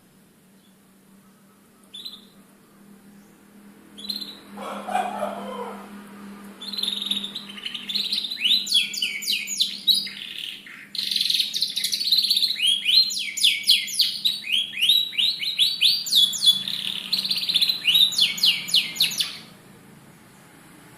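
Canary singing in fast trills of quick, repeated falling notes, starting about six seconds in and stopping shortly before the end. The first seconds hold only a couple of short chirps and a brief rustle over a faint steady hum.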